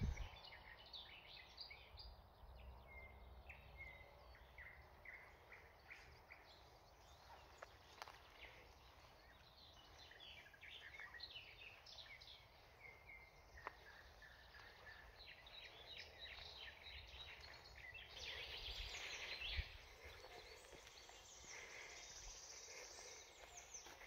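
Faint birdsong: several small birds chirping and singing in short phrases scattered throughout, with a busier stretch of song about three-quarters of the way through.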